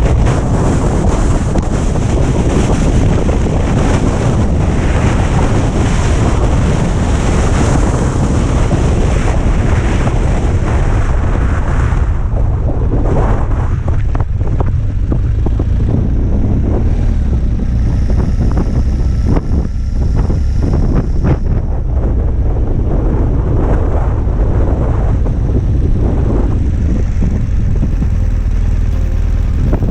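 Strong wind buffeting the camera microphone: a heavy low rumble with a loud hiss on top that eases about twelve seconds in, leaving mainly the rumble.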